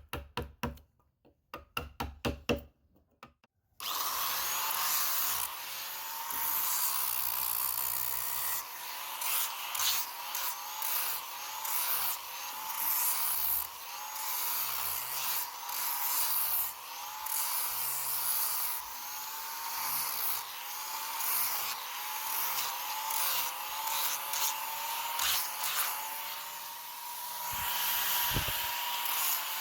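A quick run of sharp taps on wood, then from about four seconds in a small electric power tool runs without stopping, grinding and sanding into the wood, its whine wavering up and down as it bears on the carving.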